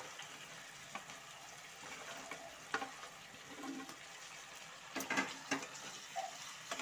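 Chili-chicken sauce sizzling in a wok as fried chicken pieces are tipped in from a plate and stirred with a wooden spatula, with scattered clicks and knocks against the pan, loudest about five seconds in.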